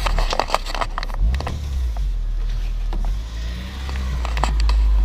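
Car driving, heard from inside the cabin: a steady low rumble of engine and road, with a few light clicks and rattles.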